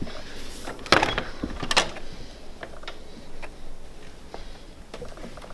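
A few sharp knocks and clicks, the loudest about a second in and just under two seconds in, with fainter scattered ticks after.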